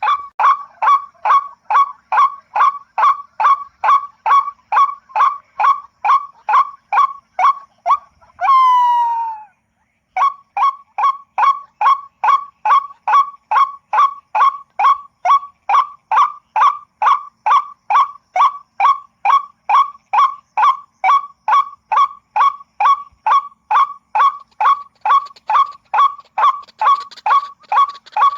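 White-breasted waterhen (ruak-ruak) calls played back as a hunting lure: one short call repeated rapidly and evenly, about two and a half a second. About a third of the way through, the train breaks for a single longer sliding note and a moment of dead silence, then starts again.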